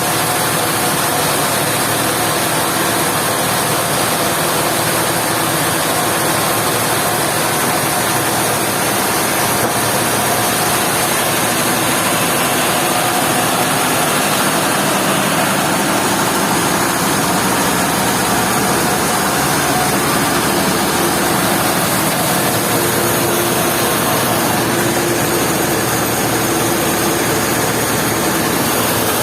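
Sawmill machinery running steadily: a dense, even machine noise with a faint hum that drifts a little in pitch.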